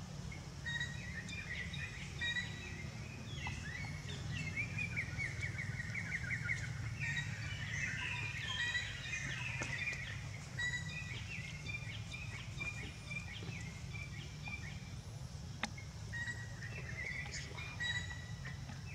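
Small birds chirping, with a rapid trill a few seconds in, over a steady low outdoor rumble.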